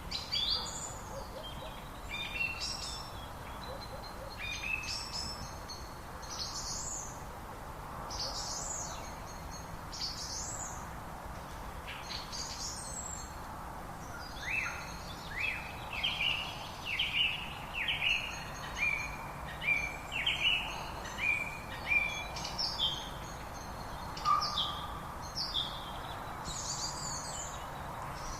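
Birds singing: a mix of chirps and whistles, and from about halfway through a run of repeated downward-sliding notes about once a second, over a steady background hiss.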